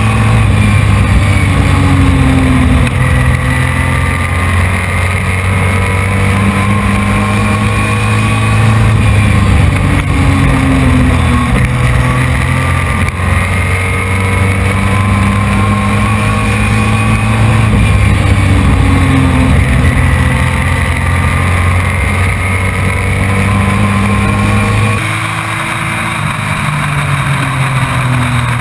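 Race truck's engine heard from inside the cockpit at full racing pace, its note climbing steadily in pitch on each straight and falling off into the turns, several times over. Near the end the engine note drops and eases for a few seconds.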